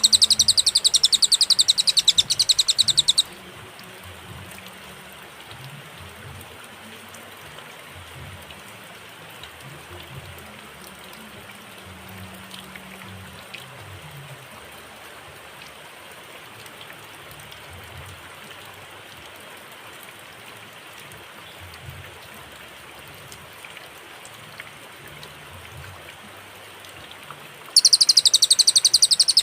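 Cililin songbird giving a fast, dense, high-pitched trill for about three seconds. A long pause of faint steady background hiss follows, and the trill starts again near the end.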